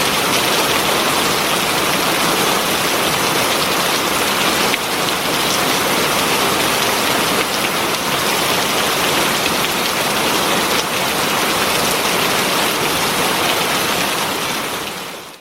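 Heavy rain falling in a steady, dense hiss, fading out near the end.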